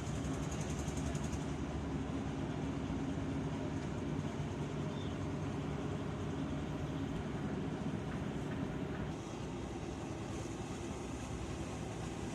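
A boat engine running steadily with a low, even drone, stepping down a little in loudness about nine seconds in.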